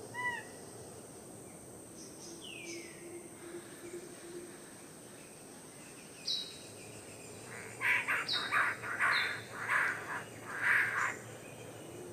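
Birds calling: a few short chirps at the start, a falling call, then high falling whistled notes and a rapid run of harsh, rasping calls from about eight seconds in.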